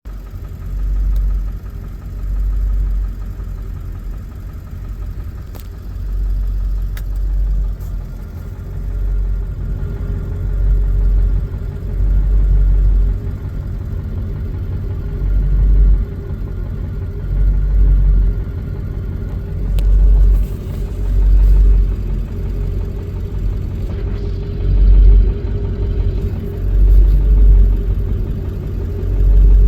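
Ford 7.3 L Power Stroke V8 diesel idling roughly, with a low rumble that swells and fades unevenly every second or two. The rough idle goes with an injector driver module fault code, P1316.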